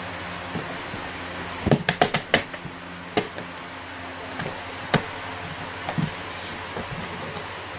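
A quick run of about five sharp knocks or clatters, then two more single knocks, over a steady background hiss.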